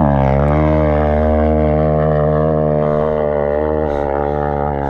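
Honda CRF450RX four-stroke single-cylinder dirt bike engine under steady throttle while riding across sand, a droning note. The revs pick up right at the start, then hold, and ease off slightly near the end.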